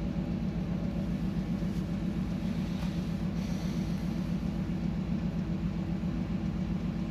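Steady low hum of a ship's engine and machinery heard aboard the vessel under way, unchanging throughout.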